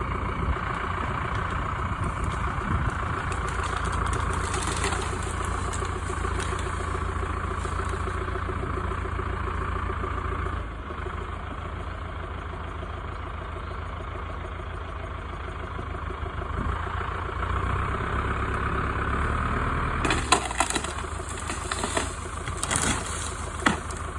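Valmet 655 tractor's diesel engine running steadily, dropping to a lower, quieter note about ten seconds in. Near the end come several sharp cracks and snaps of ash wood splintering as the tree gives way.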